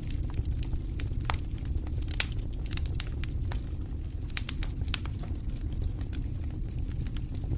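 Campfire crackling, with irregular sharp pops and snaps over a steady low rumble; the loudest pop comes about two seconds in, another near five seconds.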